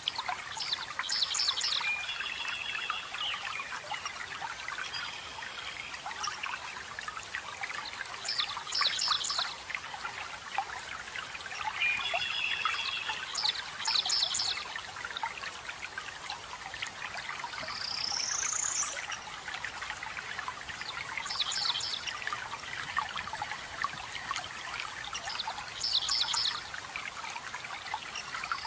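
Steady running water, a trickling stream or small falls, with forest birds singing over it: short bright chirping phrases every few seconds, and a rising whistled note twice, the second near the end.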